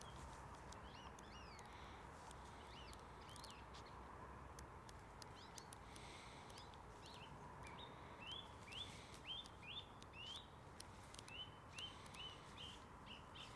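Faint birdsong: a few gliding whistles in the first seconds, then from about eight seconds in a run of short rising chirps, roughly two a second. Now and then a faint rustle of book pages being turned.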